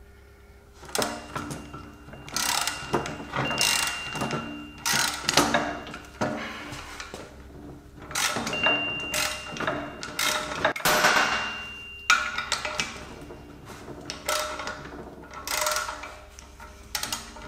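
Ratchet wrench clicking in a run of strokes, each about a second long with short pauses between, as it winds down the forcing screw of a ball joint separator. Faint metallic ringing runs through some of the strokes.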